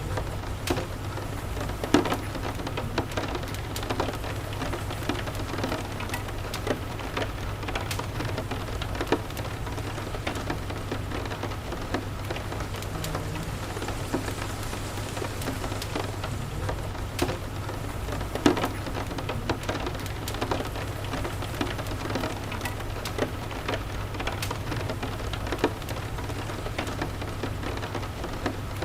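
Steady rain with a constant low rumble underneath. Scattered sharp crackles and ticks come at irregular moments, the loudest about two seconds in and again past the middle.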